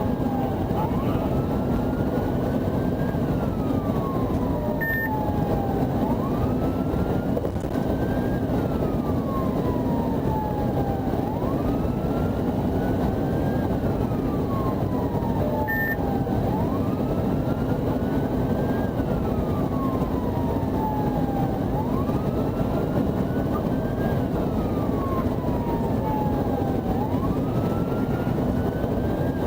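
Police siren on a slow wail, rising quickly and falling slowly about every five seconds, over steady loud road and engine noise from a vehicle moving at speed. Two short beeps sound, about five and sixteen seconds in.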